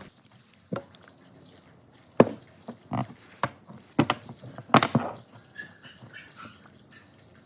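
A series of about seven sharp, irregular knocks and taps, such as pieces of wood being handled or struck in a workshop.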